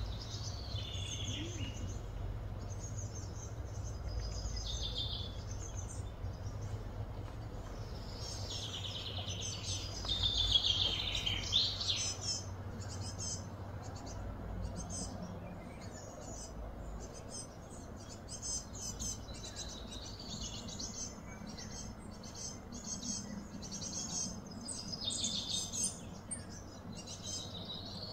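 Wild birds chirping and singing outdoors: short high calls and trills come again and again, some falling in pitch, over a steady low background rumble.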